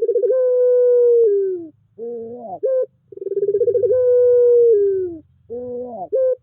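Puter pelung dove cooing: long drawn-out coos, each opening with a fast pulsing start, held as one long note and dropping in pitch at the end, alternating with short bursts of rising notes. Two such phrases.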